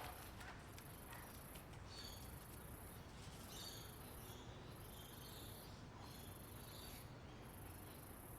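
Faint woodland ambience: a very high, buzzing insect trill that pulses on and off about once a second, with birds chirping now and then.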